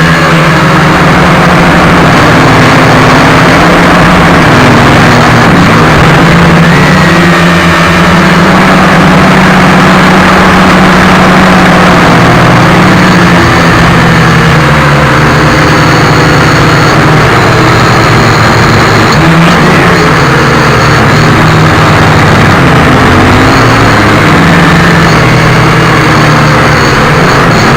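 Small quadcopter drone's motors and propellers buzzing loudly and unbroken, the pitch wavering up and down with the throttle.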